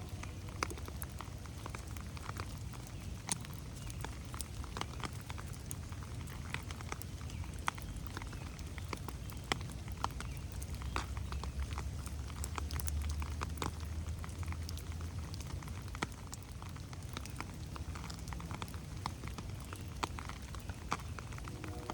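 Steady rain falling on forest foliage, with many scattered individual drops ticking sharply over a constant low rumble that swells briefly about halfway through.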